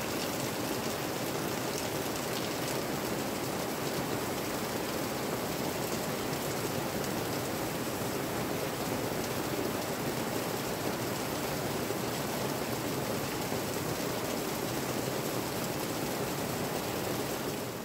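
Steady rain falling on leaves and a tarp-and-shade-cloth roof: an even hiss with scattered drops ticking through it. It fades out at the very end.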